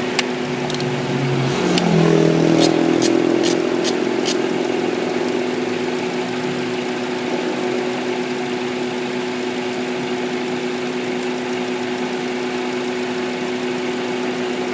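Honda Accord engine idling with an ignition coil lifted off its plug, running rough on the dead cylinder; about two seconds in its note shifts and swells as the misfire sets in. Several sharp clicks sound in the first four seconds.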